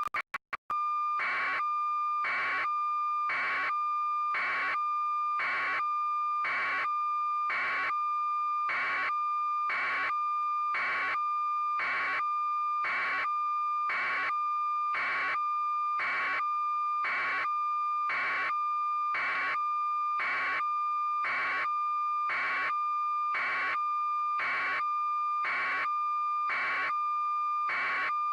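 A steady, high electronic tone with a beep-like pulse about once a second, starting abruptly and holding at an unchanging level.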